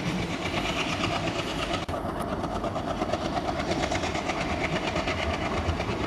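Coaches of a diesel-hauled passenger train rolling past on the rails, wheels clattering in a steady rhythm.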